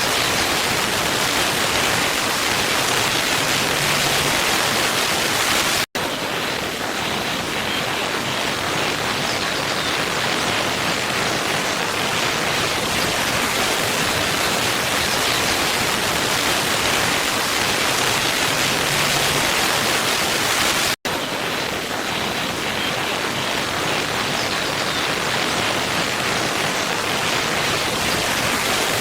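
Waterfall water rushing as a steady, even noise. It cuts out for an instant twice, about six seconds in and again fifteen seconds later, where a looped recording restarts.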